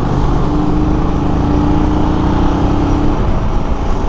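Motorcycle engine running, with wind rushing over the microphone, while riding in heavy traffic. A steady single tone is held for about two and a half seconds starting half a second in.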